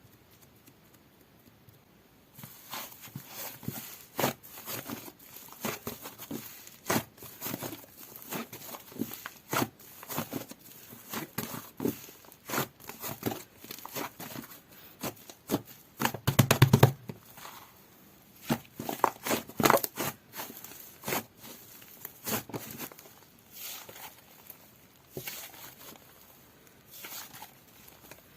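Soft white butter slime being squeezed, poked and pressed by hand, making irregular small sticky pops and crackles that begin after about two seconds of near silence. Near the middle comes a longer, louder squish.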